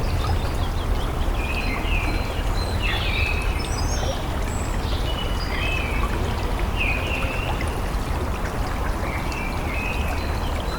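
Steady rush of flowing stream water with small birds chirping again and again over it.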